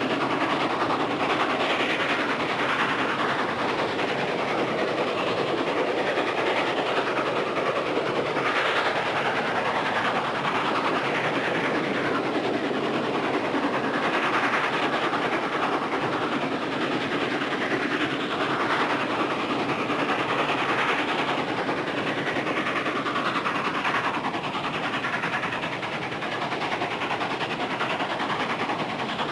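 Train running on the rails, a steady rail noise, from a sound-effects recording dubbed onto the film.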